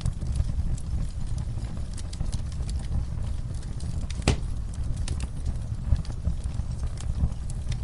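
Wood fire burning in a fireplace: a steady low rumble of flames with irregular crackles and snaps, one sharper pop about four seconds in.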